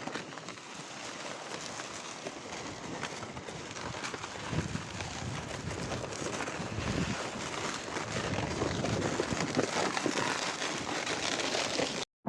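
Wind blowing over the microphone, slowly growing stronger, with soft footsteps on the icy, crusted snow.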